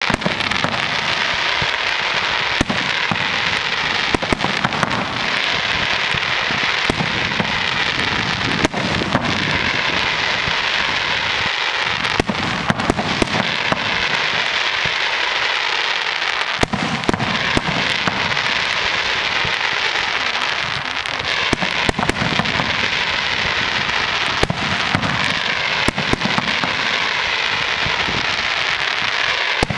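Fireworks display: a dense, continuous crackling with many sharp bangs and repeated dull low thuds from bursting shells.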